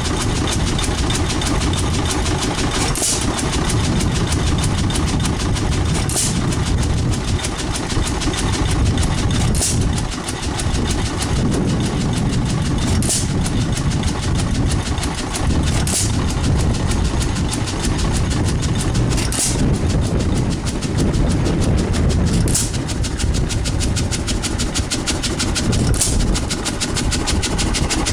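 1914 Hercules 5 hp model E single-cylinder hit-and-miss engine running unloaded on its stock governor: a steady chugging rumble with a sharp crack about every three seconds.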